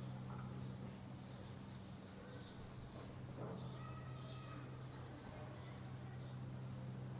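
Birds calling: a run of short, high chirps repeating every second or so, with a longer, lower call about four seconds in, over a steady low hum.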